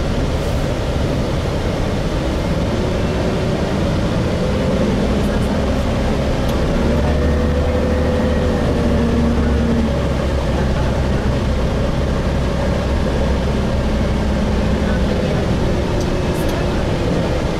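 Gillig Phantom transit bus with a Voith transmission heard from inside while under way: steady low engine and road rumble, with the engine note climbing a little and settling again in the middle.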